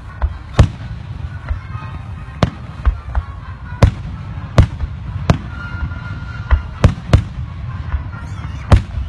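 Aerial fireworks shells bursting, with sharp bangs roughly once a second over a steady low rumble.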